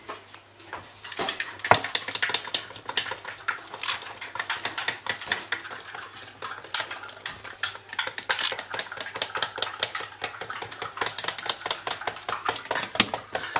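Quick, irregular clinks and taps against a ceramic mug of chocolate, many sharp ticks in a row with short pauses.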